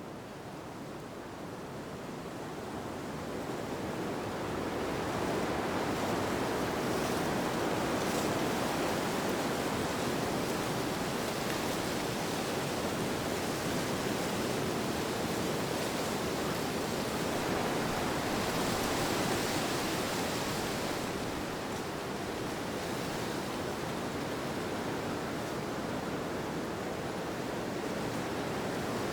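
Steady rushing wind, swelling over the first few seconds and then holding, with a slight lull about three quarters of the way through.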